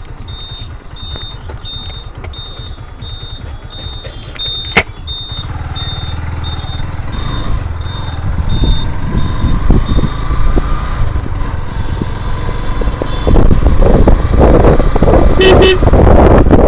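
Motorcycle riding on a rough road: a low engine and road rumble that grows louder, turning into heavy wind buffeting on the microphone in the last few seconds. A short high beep repeats about twice a second through the first ten seconds, and one sharp click comes about five seconds in.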